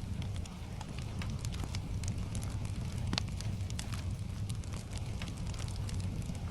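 Wood fire crackling, with frequent small pops and one louder pop about three seconds in, over a steady low rumble.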